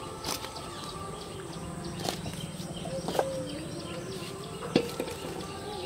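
Small birds chirping repeatedly, with a few sharp knocks, the loudest a little before the end.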